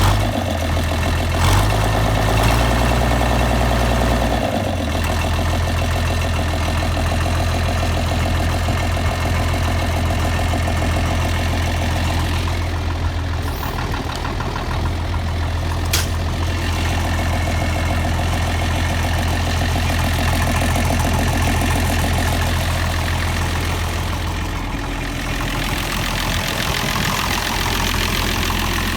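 International D301 six-cylinder diesel in a 1960 Farmall 560 tractor idling steadily, a minute or so after a cold start.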